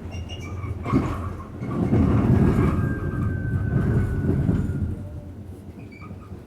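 Rumble of an R46 subway train on the rails, swelling loud for about three seconds in the middle, with a thin high squeal over it for part of that time.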